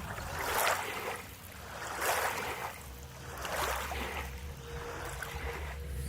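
Water splashing in three swells about a second and a half apart, over a steady low rumble.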